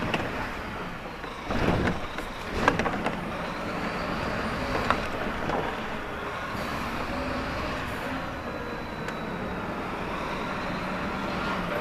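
Lorry's diesel engine running steadily at low revs, with a dull thump a couple of seconds in and a few light knocks or clicks.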